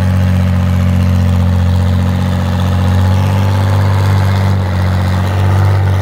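Antique farm tractor engine running loud and steady at an unchanging low pitch.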